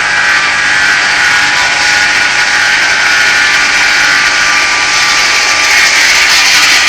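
Homemade circular-blade sawmill driven by an 11 kW electric motor, its blade sawing through an oak log: a loud, steady hiss and whine that grows a little louder near the end.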